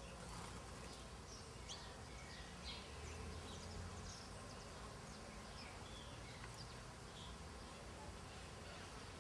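Small birds chirping: many short calls and quick downward notes, scattered through the whole stretch. A low buzz rises under them about three seconds in and fades a second or so later.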